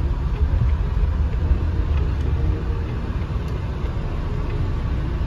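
Steady low rumble of road and engine noise inside the cabin of a moving 2015 Volvo XC60 with a 2-litre turbocharged four-cylinder.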